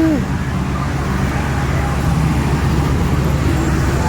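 Steady low rumbling background noise, with faint voices in the background.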